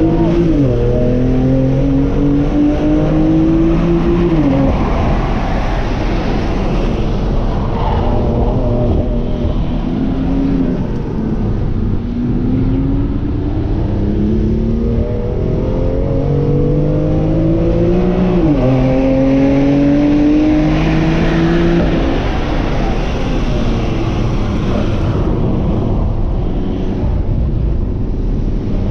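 BMW M2 CS's twin-turbo 3.0-litre inline-six heard from inside the cabin under hard acceleration on track. The engine note climbs and drops sharply at each upshift, about a second in, near five seconds and again near nineteen seconds. In the last few seconds it falls back to a quieter note over tyre and road noise.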